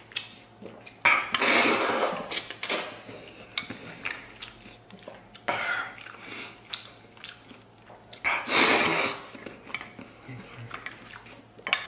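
Eating sounds, close to the microphone: three long, noisy slurping and sucking bursts at hot braised pork, with small clicks of chopsticks and dishes between them.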